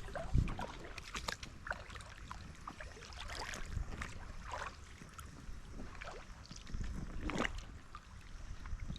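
River water splashing and gurgling in short, irregular bursts, over a low rumble of wind on the microphone.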